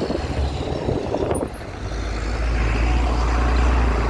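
Road vehicle noise: a low, steady rumble that swells about two seconds in, with a rushing hiss over it.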